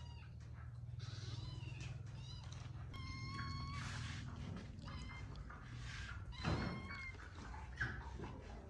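A cat meowing several times, each call drawn out and level in pitch, over a steady low hum and a few light knocks.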